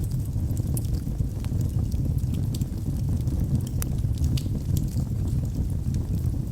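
Wood fire in a fireplace: burning logs crackling, with frequent small sharp pops at irregular intervals over the steady low rumble of the flames.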